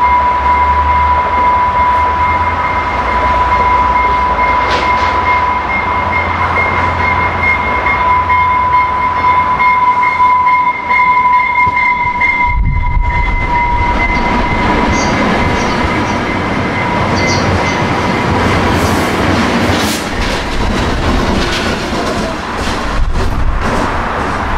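Passenger train running past, its wheels giving a steady high squeal over the rumble and rail noise. The squeal fades out about three-quarters of the way through.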